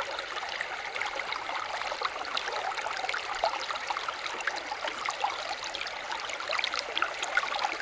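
Flowing stream water: a steady babble with many small splashes and drips throughout.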